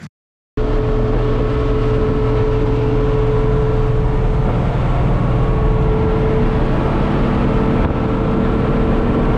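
Diesel engine and drivetrain of a 1983 Unimog U1700L ex-army truck running at a steady cruising speed: a loud, unchanging drone with a strong steady hum. It starts abruptly about half a second in.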